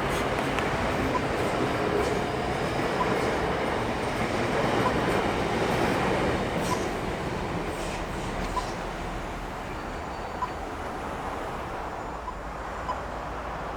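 Auckland AM class electric multiple unit running past, a steady rushing rail noise that is loudest for the first half and then fades away. A faint short pip sounds about once a second.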